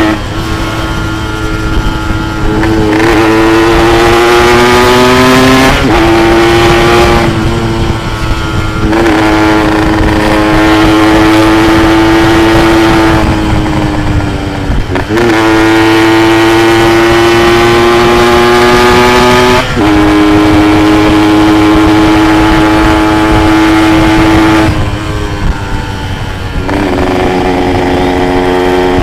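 Yamaha RX-King's single-cylinder two-stroke engine running hard under way, holding a steady high note for several seconds at a time. Every few seconds the note breaks briefly and resets at a new pitch, as between gears.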